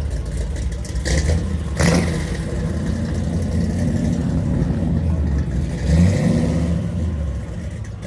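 Car engine running with a deep rumble and a rev that rises and falls about six seconds in, with two short sharp noises about one and two seconds in.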